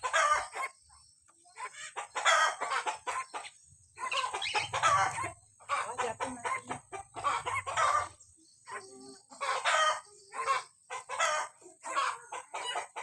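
Hill myna calling: repeated bursts of short, loud, harsh calls with brief pauses between them.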